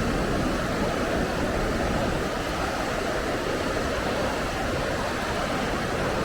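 Waterfall on the Stamp River rushing steadily, an even, unbroken wash of falling water.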